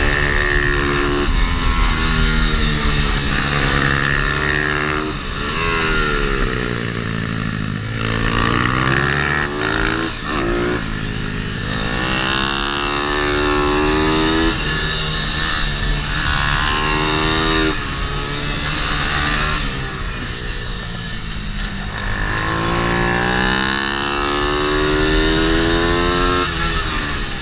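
Pit bike's small single-cylinder four-stroke engine lapping a kart track, its pitch climbing through the gears and dropping off again again and again, as it accelerates out of corners and brakes into the next.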